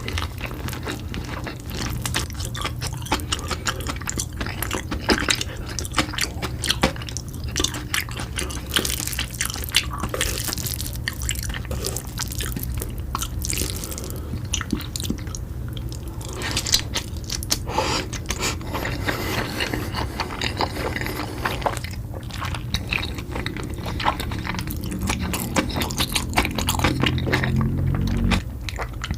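Close-miked ASMR eating of spicy carbonara fire noodles: wet chewing and biting with many small irregular mouth clicks and smacks, over a low steady hum.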